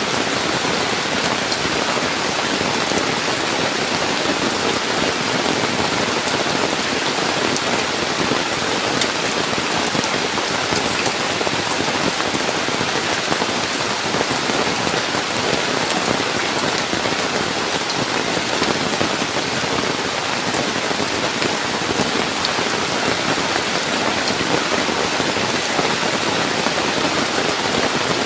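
Heavy rain falling steadily in forest, an even hiss with scattered sharp drop ticks.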